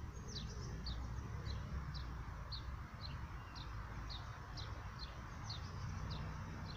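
A bird calling with short, repeated falling chirps, about two a second, over a steady low rumble.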